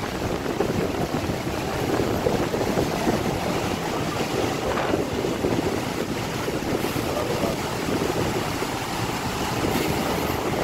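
Steady rushing noise of floodwater, with wind buffeting the microphone.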